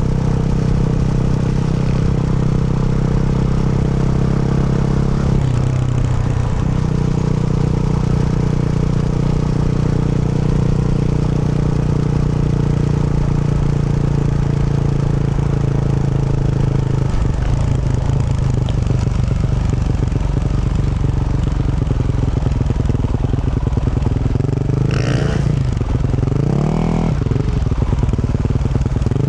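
Yamaha YZ450F single-cylinder four-stroke dirt bike with a Yoshimura RS-12 exhaust running under steady throttle for most of the stretch. The revs shift a couple of times, then rise in quick glides near the end.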